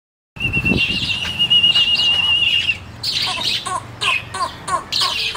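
Birds calling: a long warbling whistle held for about two seconds, then a quick run of short repeated calls, about three a second.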